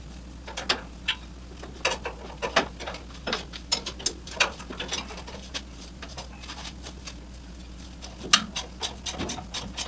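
A hand ratchet wrench clicking in short, irregular runs, working a motor mount bolt, over a steady low hum.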